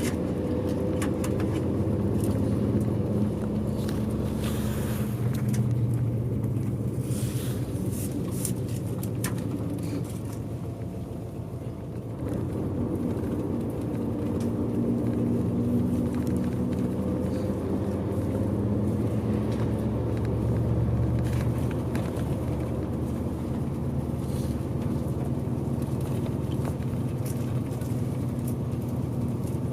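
Bus engine running while the bus drives, heard from inside the passenger cabin; its pitch rises and falls as it pulls and eases off, with a quieter stretch about ten seconds in. A few short clicks come through in the first ten seconds.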